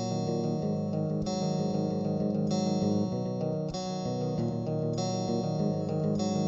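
Guitar playing the intro of a rock song: held chords, changing to a new chord about every second and a quarter.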